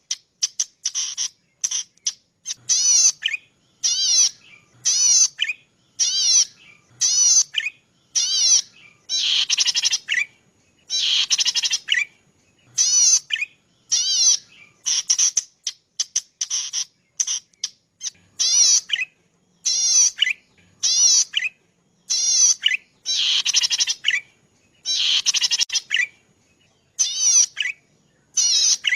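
Cici padi, a small rice-field warbler, singing: short rapid trilled phrases, each under a second long, repeated about once a second with brief pauses between.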